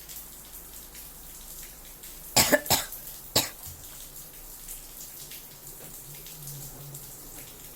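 LG 6 kg washing machine running a wash, with a steady sound of water sloshing in the drum. A little over two seconds in, a person coughs three times, the loudest sounds here.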